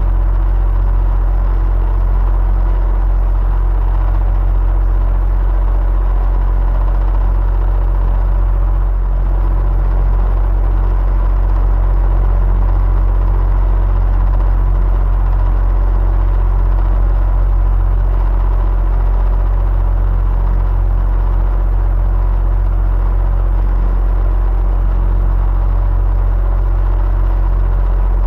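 Electric fan running steadily: a deep low hum and a faint steady whine over an even rush of air.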